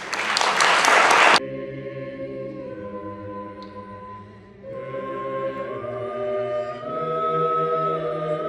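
Brief applause that cuts off abruptly, then a group of voices singing long held notes in a slow chant, with more voices joining about four and a half seconds in.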